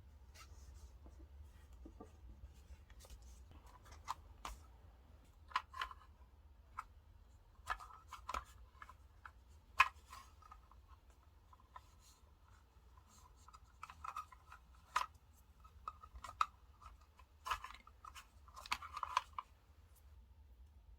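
Small scissors cutting sticker paper in short, irregular snips, with light clicks and paper rustles. A faint low hum runs underneath.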